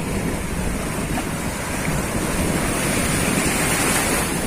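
Strong wind buffeting the microphone over the wash of sea waves, with a louder surge of rushing noise about three seconds in that eases near the end.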